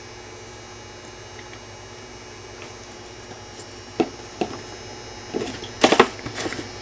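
Small clicks and rustles of pliers and thin jewelry wire being handled: two sharp ticks about four seconds in, then a louder cluster near six seconds. A steady low mains hum runs underneath.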